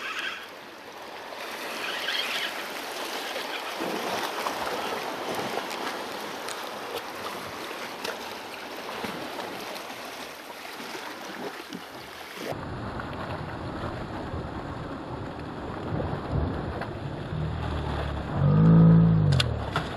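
Sea waves washing against the rocks, with wind on the microphone. Near the end there is a brief, louder low droning tone.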